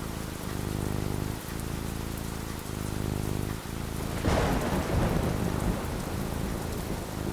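Thunderstorm: steady rain falling over low rolling thunder, with a sharp thunderclap about four seconds in that rumbles away.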